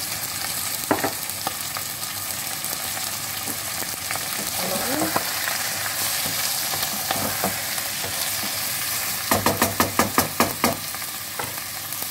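Chicken livers and onions sizzling in a nonstick pot while a wooden spatula stirs them. Near the end comes a quick run of about eight sharp knocks.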